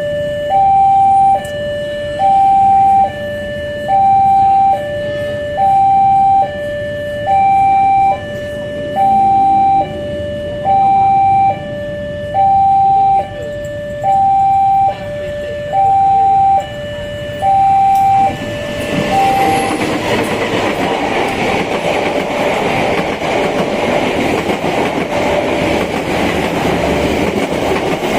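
Railway level-crossing warning alarm sounding a steady two-tone high-low signal, about three-quarters of a second per tone. From about two-thirds of the way in a passing train's rumble and wheel noise rises and covers most of the alarm, which keeps sounding underneath.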